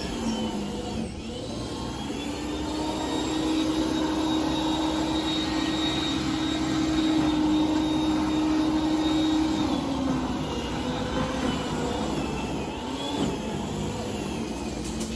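Gasoline snowblower engine running steadily under load. Its pitch holds, then dips a little about ten seconds in and again near thirteen seconds.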